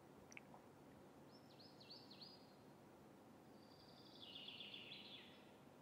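Near silence with faint bird calls in the background: a short run of quick, downward-sweeping chirps between one and two seconds in, then a rapid trill near the end.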